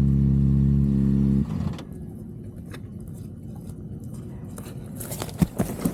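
A vehicle engine running at a steady, unchanging pitch, cutting off about a second and a half in. A quieter low rumble with a few faint clicks follows, with sharper clicks and knocks near the end.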